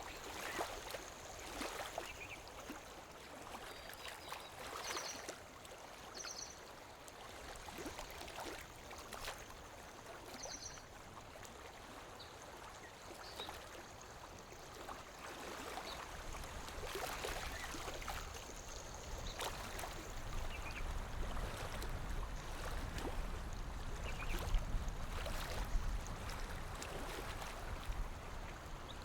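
Lake water lapping gently against the shore in small, irregular splashes. A low rumble joins about halfway through.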